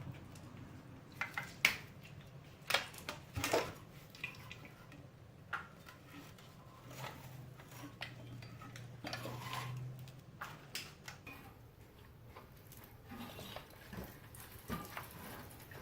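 Metal tools and engine parts clinking and clanking at irregular intervals as a wrench works bolts and the water-pump and radiator piece are pulled off a small-block Chevy 350, with the sharpest knocks in the first few seconds. A faint steady low hum runs underneath.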